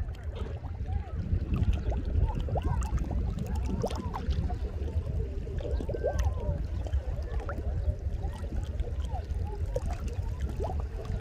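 Sea water sloshing and gurgling, with a steady low rumble underneath.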